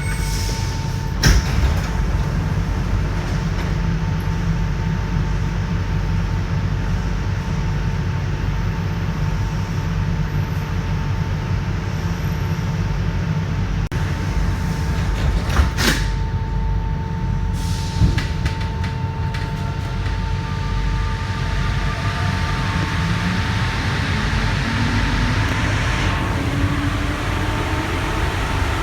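Santiago Metro NS-93 train heard from inside a car: a steady low rumble with a constant electrical hum and a few sharp knocks. In the last third a rising whine sets in as the traction motors pick up speed.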